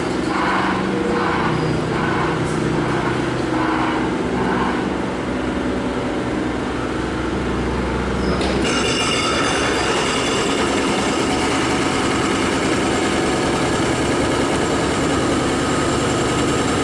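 An X'Trapolis electric train arriving through a noisy construction site: a steady low machinery drone with a rhythmic pulsing, then about halfway through a steady high-pitched whine joins in.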